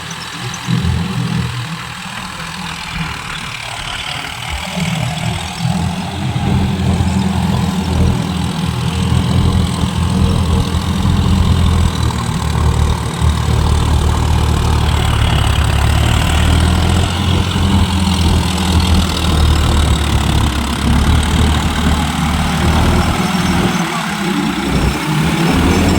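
Tractor engine running steadily with a deep, low hum, growing louder about five seconds in and then holding steady.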